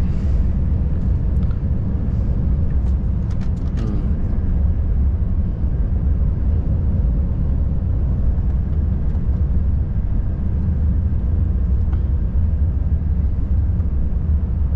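Volvo FH540 truck's 13-litre straight-six diesel and road noise droning steadily, heard from inside the cab while driving. A few faint clicks come in the first four seconds.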